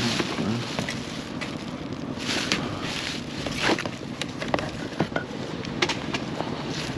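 Rummaging through a pile of junk: scattered clicks, knocks and rustles over a steady low rumble.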